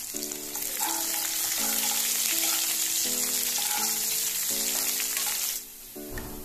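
Sliced onions sizzling as they fry in hot oil in a kadai, stirred with a spoon; the sizzling cuts off sharply near the end. Background music with a melody of short held notes plays throughout.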